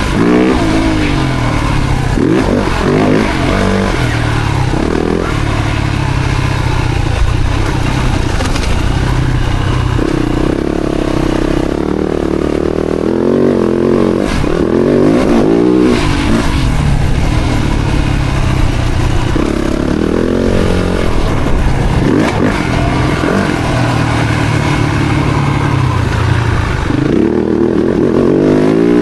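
Four-stroke single-cylinder motocross bike engine ridden hard, revving up and dropping back again and again, with a steadier stretch near the middle.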